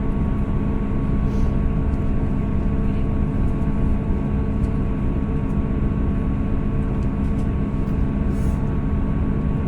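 Steady running noise inside a two-carriage diesel train's passenger car: a low rumble with an even engine hum of several steady tones, the train moving slowly along the shore.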